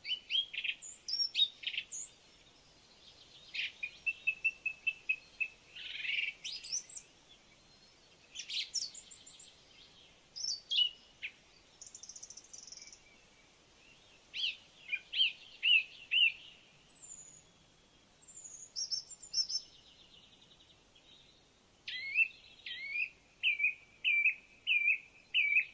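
Songbirds singing and calling: a mix of short chirps, whistled notes and trills in scattered phrases with brief pauses, and a quick run of repeated notes near the end.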